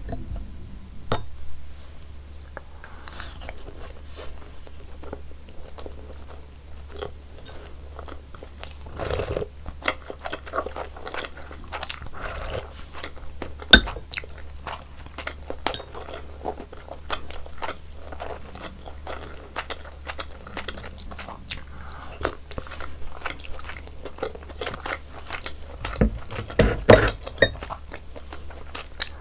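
Close-miked eating sounds from a meal of beef seaweed soup and white rice: chewing and biting with many small clicks and smacks, and one sharp loud click about 14 seconds in. A steady low hum sits underneath.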